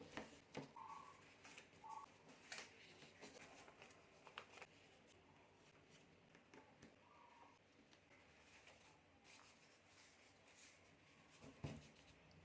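Near silence with faint rustling and soft creasing clicks of a sheet of origami paper being folded by hand, one sharper click about half a second in and another near the end.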